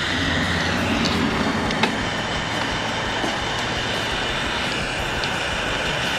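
Handheld soldering torch flame burning with a steady rushing noise while wires are soldered, with a few faint ticks of handling.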